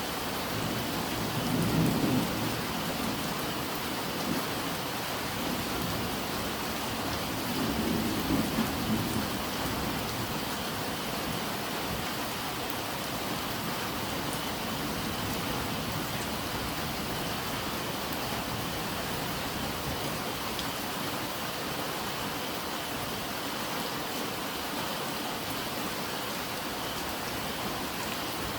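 Steady rain falling, with two brief low rumbles of thunder, the first about two seconds in and the second about eight seconds in.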